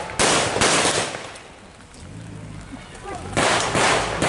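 Blank gunfire in a staged mock battle: two sharp, loud shots within the first second, a brief lull, then a long, dense stretch of loud firing that starts near the end.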